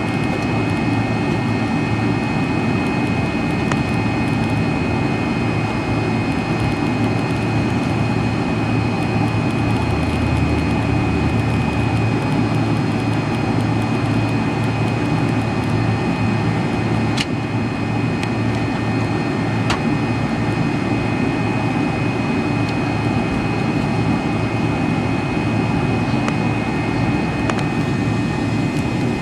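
McDonnell Douglas MD-83's tail-mounted Pratt & Whitney JT8D turbofans running at low power, heard inside the rear cabin as a steady low rumble with a constant high whine.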